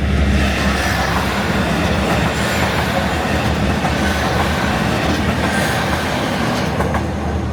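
A train running on rails: a loud, steady rumble and rail noise that builds up, holds for several seconds, then fades away.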